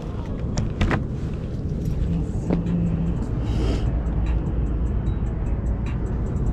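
Honda Rebel 300's single-cylinder engine running under a steady low rumble of road and wind noise, with a couple of sharp clicks about a second in.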